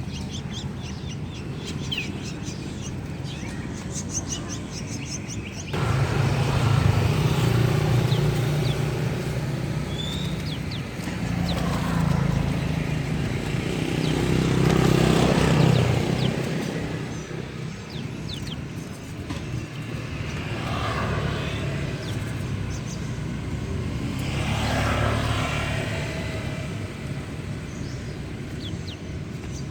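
Small birds chirping over steady traffic noise, with a low engine running from about six seconds in and several motor vehicles passing, swelling and fading.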